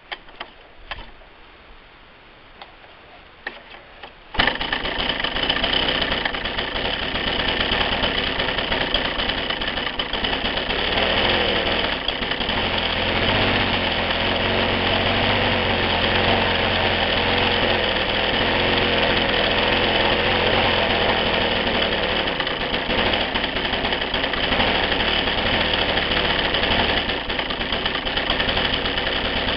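A petrol engine starts about four seconds in after a few clicks, then runs at a steady speed.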